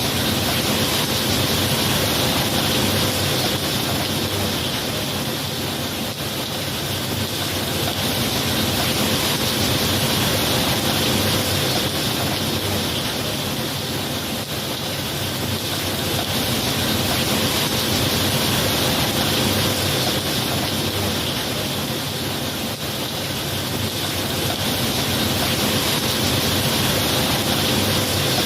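Steady rain falling, a continuous hiss that swells and eases gently every several seconds.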